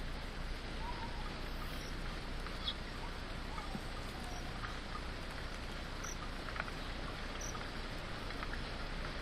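Steady hiss of rain falling in the forest, with scattered drip ticks and a few short, falling bird chirps.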